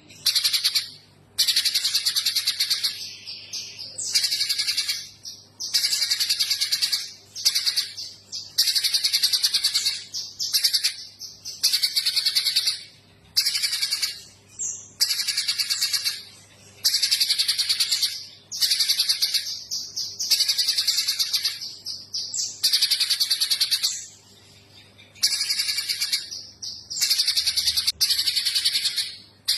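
Spiderhunter (pijantung gunung) singing persistently in full song: loud, fast rattling trills lasting one to three seconds each, repeated one after another with short pauses between them.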